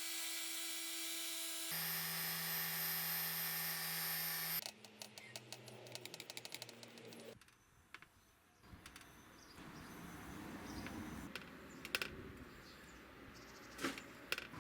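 Electric power tool motors running steadily, with a change to a lower hum about two seconds in. Then a quick run of rapid clicks, and scraping and handling noise with a few sharp clicks.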